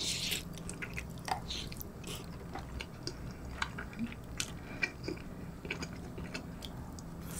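Close-miked chewing of a mouthful of soupy rice and pork cutlet from a kimchi stew: soft, wet mouth sounds with scattered small clicks. It opens with a short noisy burst as the spoonful is taken in.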